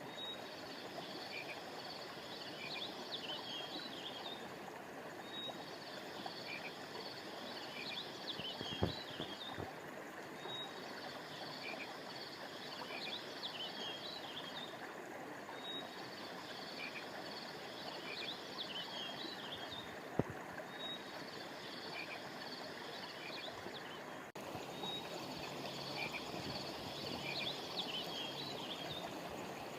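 Frogs calling in repeated high bouts, a new bout about every five seconds, over the steady rush of flowing river water. Two brief knocks stand out, one near the middle and one about two-thirds through.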